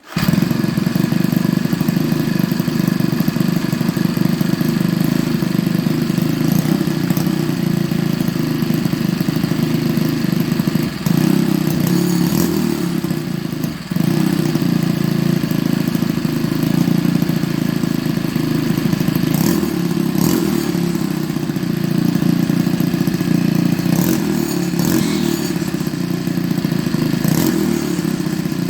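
String trimmer engine running through a homemade stainless steel exhaust muffler, starting abruptly and running steadily with two brief dips in level midway.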